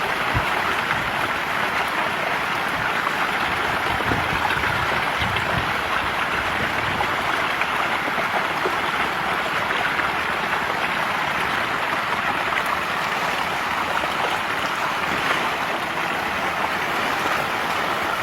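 Steady, dense splashing and churning of water as a mass of fish thrashes at the surface, feeding.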